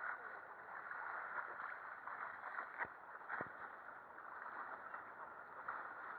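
Water sloshing and gurgling against a sailing boat's hull, with a couple of faint knocks about halfway through.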